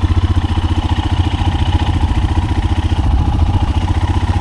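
Royal Enfield Himalayan's single-cylinder engine idling steadily, with an even, unchanging beat.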